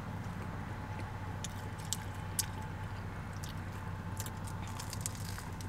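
Close-miked chewing of a pizza slice: soft, wet mouth sounds with scattered small clicks, over a steady low hum.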